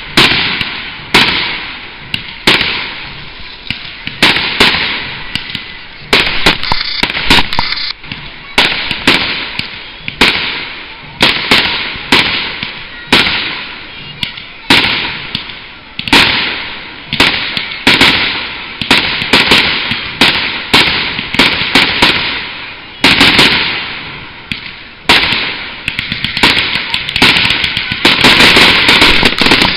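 Aerial firework shells bursting one after another, about one loud bang a second, each followed by a fading crackle. Near the end the bursts run together into a dense, continuous barrage.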